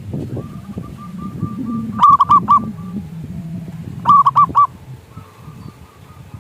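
Zebra dove (perkutut) singing: two bursts of about four quick, bubbling coos, roughly two seconds apart. A fainter run of the same coos comes before the first burst, over a low background rumble.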